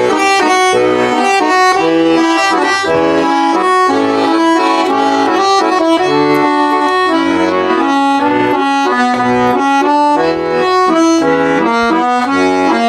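Russian garmon (button accordion) playing a lively instrumental introduction to a song: a melody over pulsing bass chords.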